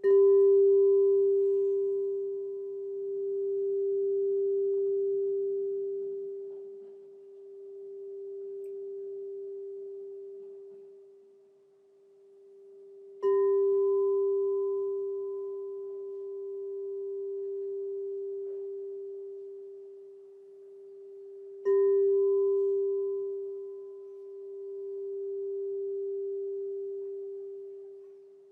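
Crystal singing bowl struck three times, at the start, about 13 seconds in and about 22 seconds in. Each strike rings on one steady tone with a fainter higher overtone, slowly swelling and fading in waves as it dies away.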